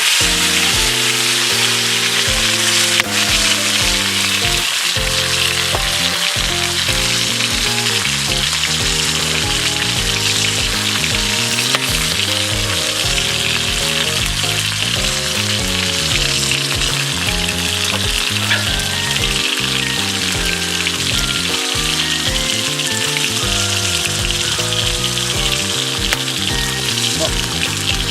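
Food frying in a pan: a steady sizzle throughout, over background music.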